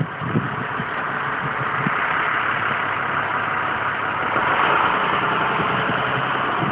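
A steady engine hum, like a motor vehicle idling, under a constant hiss, with a couple of light knocks at the very start.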